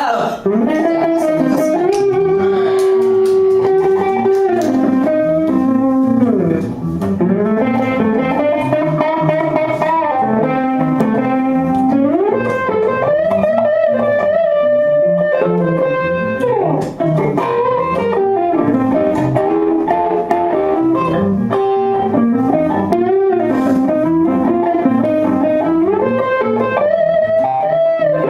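Instrumental break of a song: an electric guitar plays a lead melody with frequent pitch slides and bends over the band backing.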